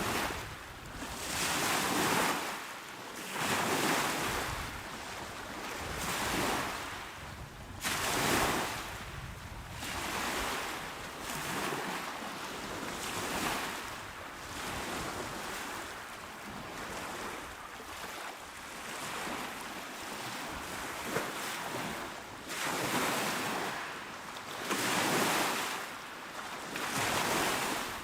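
Calm small waves breaking on a shore and washing back, a rushing sound that swells and fades every two to three seconds.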